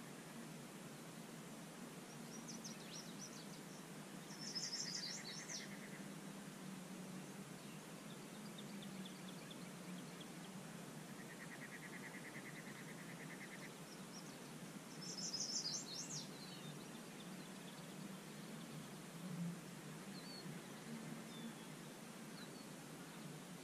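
Quiet open-air ambience with a steady low background, over which a songbird sings two short, quick phrases, about five seconds in and again about fifteen seconds in. A buzzy trill is heard twice, and a few faint chirps come near the end.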